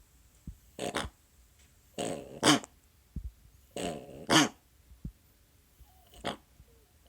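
Chihuahua making repeated honking, duck-like noises, four episodes of two quick honks each, the middle two loudest. They are the sign of a congenital condition common in Chihuahuas that is hard to tell from reverse sneezing.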